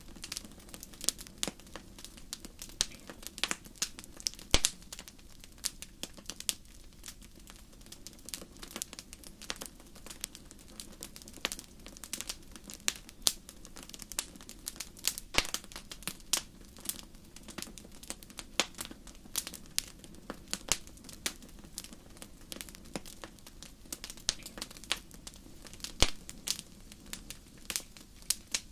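Wood fire in a fireplace crackling, with frequent irregular sharp pops and snaps over a low steady hiss of the flames.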